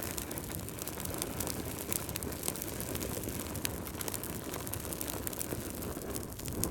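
Logs burning in a fireplace, crackling with frequent sharp pops over a steady low rush of the fire.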